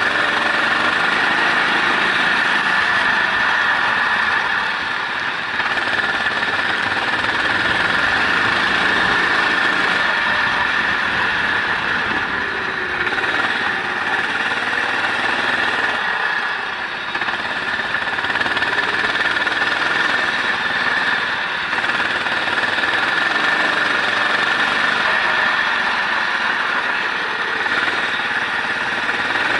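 Onboard engine sound of a race vehicle lapping a wet circuit, its pitch rising and falling as the rider or driver accelerates and brakes, under a steady hiss. The engine note dips briefly twice, about five seconds in and again past the middle.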